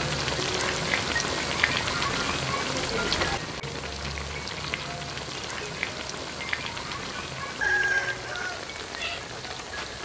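Banana slices deep-frying in hot oil: a dense sizzle full of small crackling pops. The sizzle drops in loudness about three seconds in.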